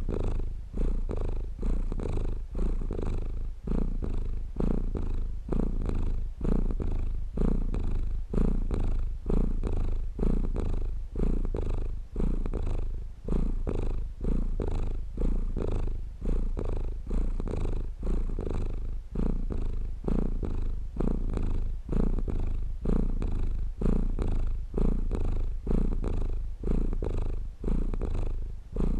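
Domestic cat purring steadily and close up, a low rumble that swells and dips with each breath about every second and a half.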